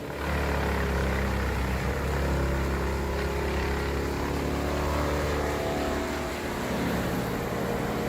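A heavy machine's engine running steadily, its pitch drifting slightly, with no sharp impacts.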